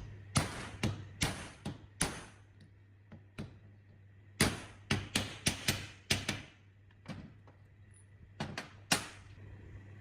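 Irregular series of sharp knocks and clanks from hand work on metal pump parts, coming in three bunches: about five in the first two seconds, a quicker run of about eight in the middle, and two or three near the end.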